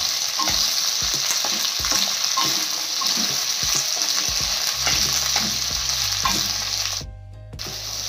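Chopped okra frying in hot oil in a steel kadhai on high flame: a steady sizzle, with the scrape and clatter of a spatula stirring and turning it. The sizzle drops out briefly about seven seconds in.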